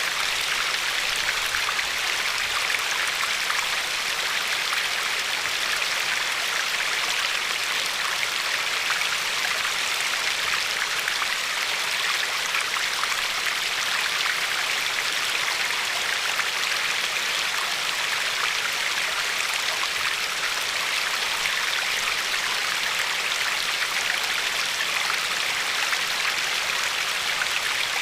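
River water flowing and lapping along a pebble shore: a steady, even rush with many fine little splashes.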